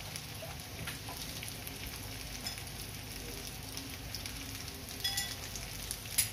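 Pieces of pre-fried chicken, carrots and potatoes sizzling steadily in a stainless steel wok, with a few short clicks near the end.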